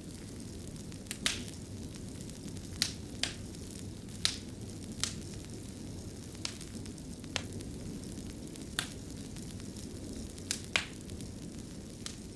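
Fireplace fire crackling: about a dozen sharp, irregularly spaced pops over a steady low rumble of the flames.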